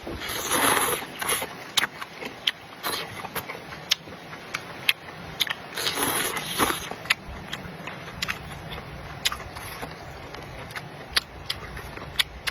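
Close-miked eating: a run of sharp clicks and crunches as food is chewed and handled, with two longer noisy bursts, about half a second in and around six seconds in.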